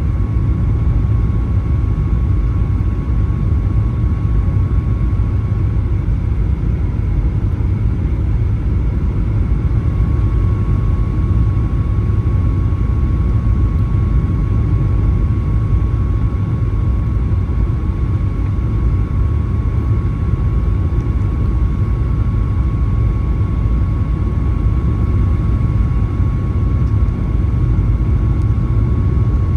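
Cabin noise of a Boeing 737-900 on final approach: the CFM56 engines and airflow make a steady low rumble, with a thin steady whine above it.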